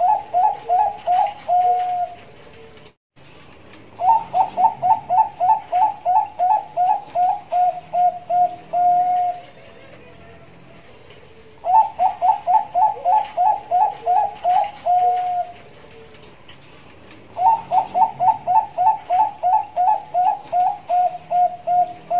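Zebra dove (Bangkok perkutut) singing: the end of one phrase, then three full song phrases, each a quick run of rising cooing notes that settles into a few level notes and a longer final coo, with pauses of about two seconds between phrases.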